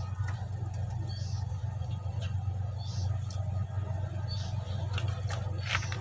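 A steady low hum, with a short high chirp repeating about every second and a half, and a few faint clicks that come closer together near the end.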